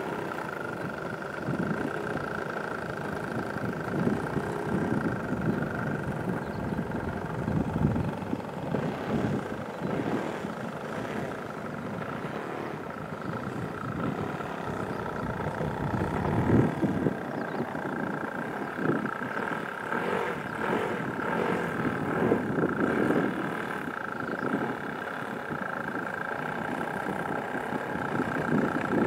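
An engine, the one the title calls the Hien engine, running steadily with a constant high whine over an uneven low rumble that swells and eases several times. It is said to be running in excellent condition.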